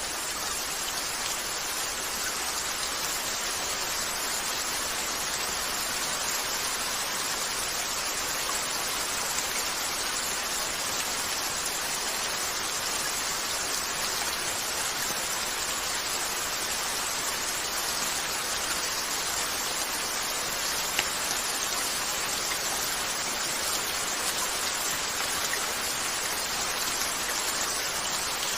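Steady rain pattering on a window, with a few faint pops from a crackling fireplace now and then.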